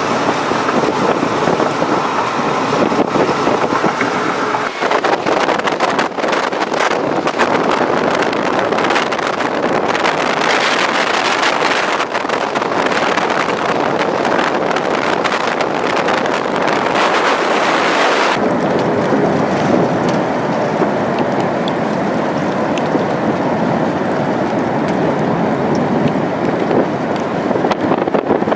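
Strong wind buffeting a camera microphone in storm-chase footage of a violent tornado, a loud, continuous rushing noise. For the first five seconds a steady tornado-warning siren tone sounds under it, then stops. About eighteen seconds in the sound changes abruptly and becomes duller.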